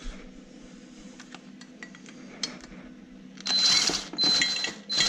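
Light metal clinks of tools and bolts, then three short bursts of a cordless driver with a steady whine, spinning out the loose exhaust manifold bolts.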